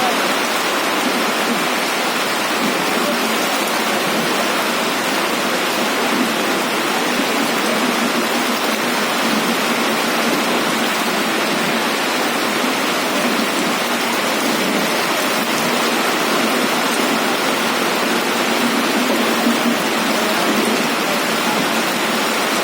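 Heavy rain falling: a steady, even hiss with no breaks or rhythm.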